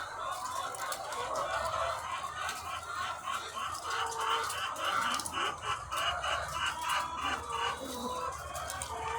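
A large flock of egg-laying hens clucking together in a dense, continuous chorus of overlapping calls. A run of quick repeated notes stands out in the middle, over a low steady hum.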